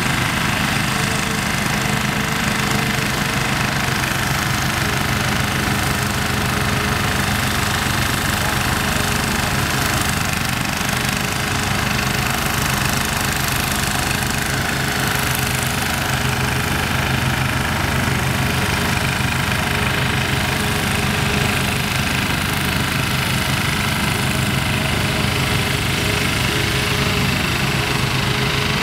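Heavy construction machine's engine running steadily at constant speed, with a low, even rumble and no changes in pace.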